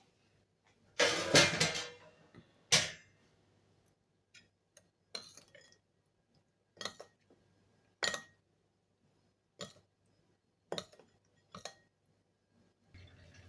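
Kitchen utensils and dishware clinking and clattering: a loud clatter about a second in, a sharp knock soon after, then scattered single clinks.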